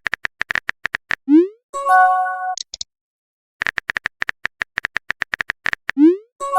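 Electronic cartoon-style sound effects in a repeating pattern: a fast run of short clicking beeps, a quick rising whoop, then a bright held synth chord. The sequence plays twice.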